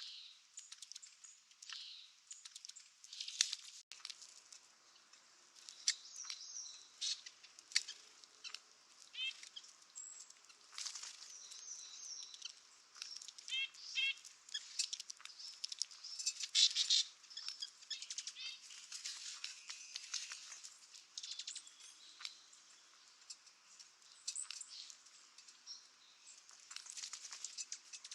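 Many short, high bird chirps and calls, some in quick runs of repeated notes, scattered through the whole stretch among sharp clicks and rustles.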